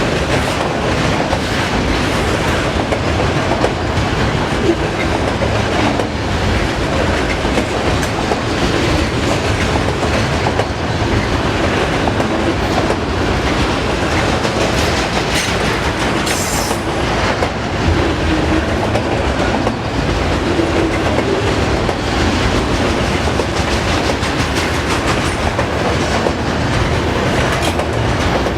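Freight train of auto-rack cars rolling past, wheels clicking steadily over the rail joints, with a brief high screech of wheels on rail about midway.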